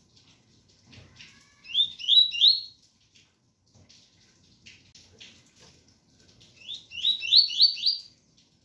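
Double-collared seedeater (coleiro) singing two short phrases of quick rising whistled notes in the 'tui-tui' style, the first about two seconds in and the second near the end, over a faint patter of rain.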